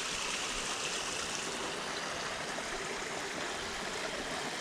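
Creek water flowing steadily over rocks, a continuous rushing babble.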